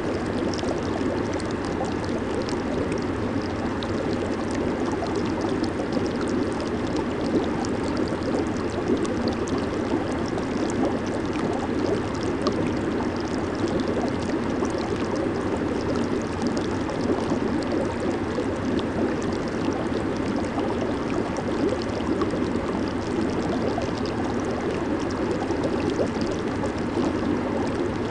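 Hot tub jets churning and bubbling the water in a steady, even rush with fine fizzing of bursting bubbles.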